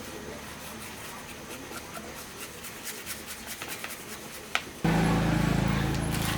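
Light scraping with scattered small ticks and a sharp click, then a motor suddenly starts about three-quarters of the way through and runs with a steady low hum.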